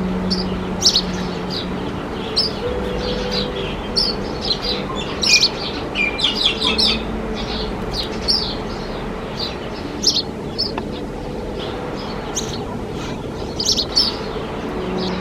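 Sparrow chirping: many short, high chirps, thickest around the middle and again near the end, over a steady background hum.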